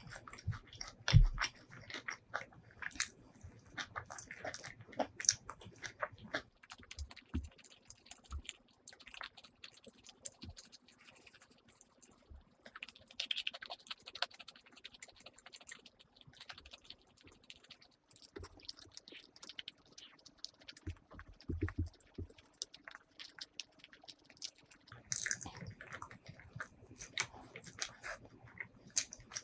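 Close-miked eating sounds: mouth chewing and smacking on mouthfuls of chicken biryani eaten by hand, with fingers squishing and gathering the rice. The sounds come as irregular small clicks and wet smacks.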